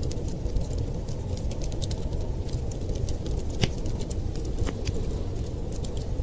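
Wood fire crackling, with scattered sharp pops over a steady low rumble; the loudest pop comes a little past halfway.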